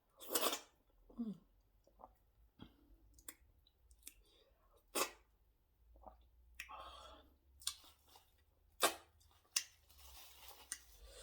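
Chewing and wet mouth sounds of a person eating fufu with ogbono soup, in irregular smacks and clicks.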